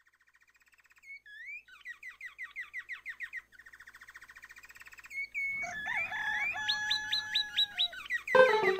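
Birds chirping and trilling in quick repeated runs, with steadier whistled tones joining after about five seconds. Music starts up loudly near the end.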